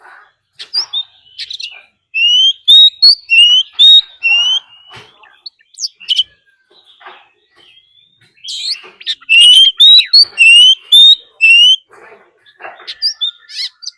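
Oriental magpie-robin singing its aggressive dueling song: two loud runs of repeated rising notes, one about two seconds in and another about eight seconds in, with scattered chirps and clicks between.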